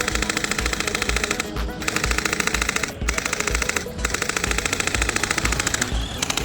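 Background music with a steady beat, over a fast, even rattle of rapid-fire shots from a toy gel bead blaster firing on full auto. The rattle breaks off briefly about a second and a half in, at three seconds, at four seconds, and again near the end.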